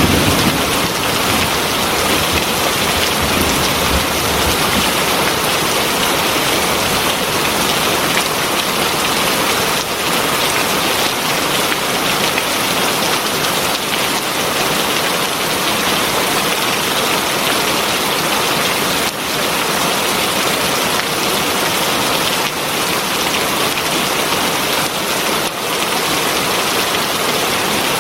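Heavy rain falling steadily, a dense even hiss of drops on surfaces. The tail of a thunder rumble dies away at the start.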